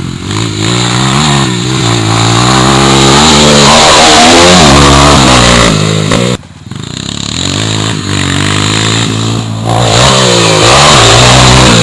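Honda CRF230F dirt bike's single-cylinder four-stroke engine being ridden hard, revving up and down through the gears. About six seconds in the throttle is chopped for a moment, then the engine picks up again.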